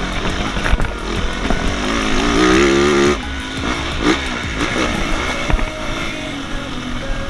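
Motocross motorcycle engine running, with a rev that rises about two seconds in and drops off sharply about a second later.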